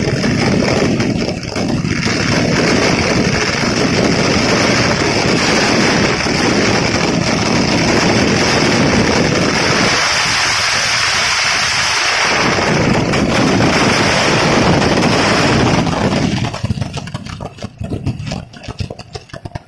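Fireworks display: a dense, unbroken barrage of firecracker blasts and burning fountains merging into one loud continuous din with a hiss over it. About sixteen seconds in it thins into separate crackles and bangs.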